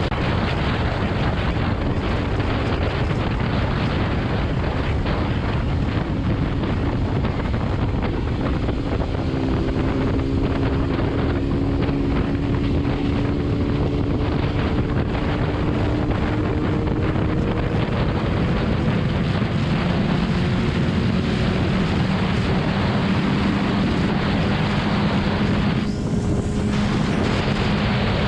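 Wind roaring over the microphone of a motorcycle at highway speed, drowning most of the engine. A BMW S1000RR's inline-four can be heard faintly through it, its note climbing slowly about a third of the way in and then holding steady.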